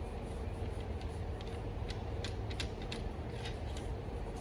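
Muzzleloader wadding being balled up by hand: a scatter of short, sharp crackles about a second and a half in, over a steady low background.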